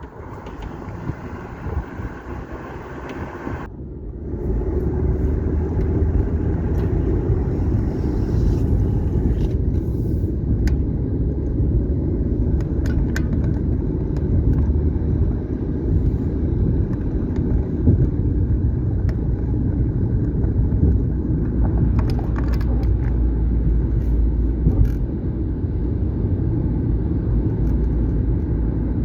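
A car driving along a road: steady engine and tyre rumble, louder from about four seconds in.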